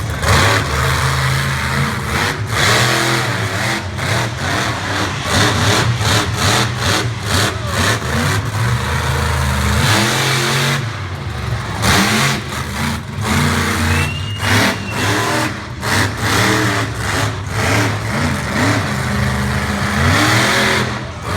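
Monster truck's engine revving hard, its note rising and falling over and over and cutting in and out as the throttle is worked.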